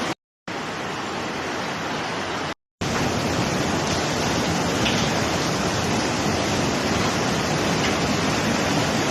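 Rushing water of a storm flood: a loud, steady, dense noise. It breaks off twice briefly in the first few seconds, where the footage cuts.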